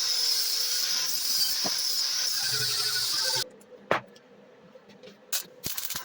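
A power tool running with a steady high hiss that cuts off abruptly about three and a half seconds in, followed by a few sharp clicks and a knock as parts or tools are handled.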